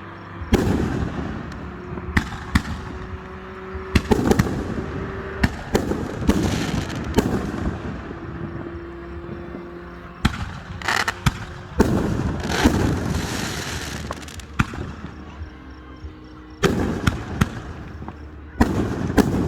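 Fireworks display: aerial shell bursts going off as a string of sharp bangs, a dozen or more, some followed by a few seconds of crackling.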